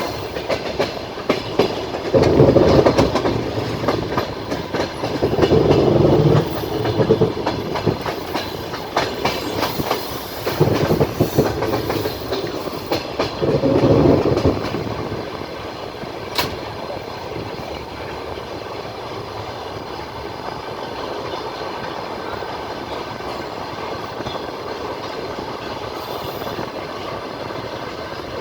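Passenger train wheels clattering over the rail joints, heard from inside the carriage. Four louder stretches of rapid clatter come in the first half, then it settles into a steadier, quieter rumble with a single sharp click.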